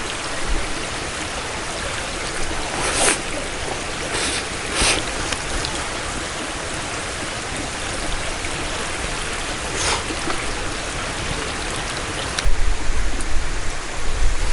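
Steady rushing noise like running water or rain, with a few short crisp ticks. About two seconds from the end a low buffeting rumble, like wind on the microphone, comes in and stays.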